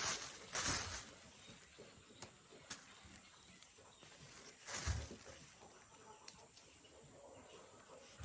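Rustling swishes of grass being cut by hand: two strokes at the start and another about five seconds in with a dull thud, and a few light clicks between.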